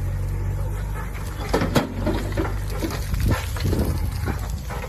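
Tractor diesel engine running steadily, with a string of short, loud calls or cries over it from about a second and a half in.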